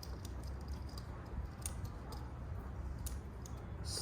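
Small, irregular metallic clicks and taps of a Torx wrench turning a brake rotor bolt down into the hub, over a low background hum.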